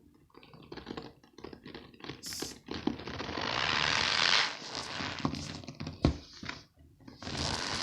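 Cornstarch-filled squeaky balls squeezed by hand, giving a run of short squeaky crunches and a longer drawn-out crunch about three to four and a half seconds in.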